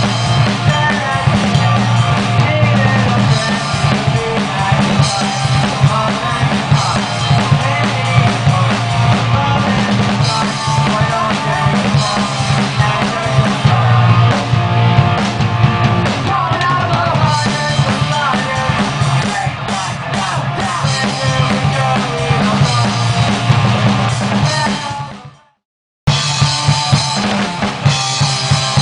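A band playing with a full drum kit to the fore: kick, snare and rimshots over a steady low band line. The music fades away about 25 seconds in and cuts back in abruptly a second later.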